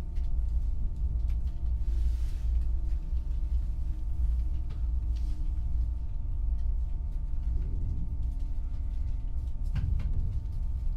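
Inside a passenger train carriage running on the rails: a steady low rumble with an even electrical hum and a faint whine that slowly falls in pitch as the train slows for a station. A single sharp knock comes near the end.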